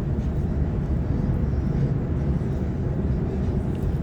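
Waratah B-set electric multiple unit running at speed, heard from inside the carriage: a steady low rumble of wheels on rail and running gear.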